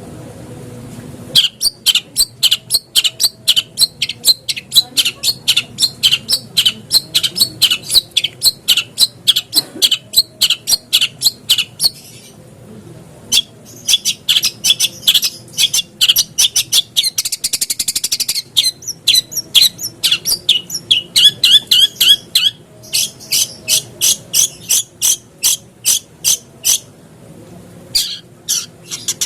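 Long-tailed shrike (cendet) giving fast runs of sharp, repeated chattering notes, about four to five a second, broken by short pauses, with a harsher rasping stretch near the middle.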